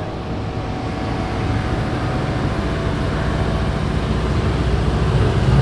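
A car engine running with a low rumble that grows steadily louder toward the end, as the car comes closer.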